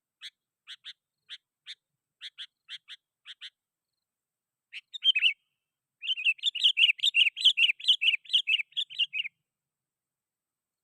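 Sooty-headed bulbul calling: a string of short, evenly spaced chirps, then a brief louder phrase about five seconds in. From about six seconds in comes a rapid run of loud chattering notes lasting about three seconds.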